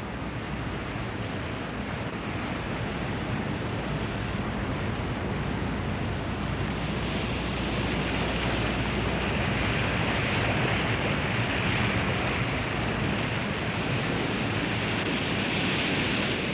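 Sea and wind rushing past a warship under way at speed: a steady, noisy rush of water and spray that grows gradually louder and brighter, then cuts off abruptly at the end.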